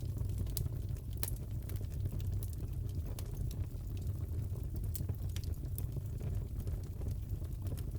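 Fireplace crackling: irregular sharp pops and snaps of burning wood over a steady low rumble.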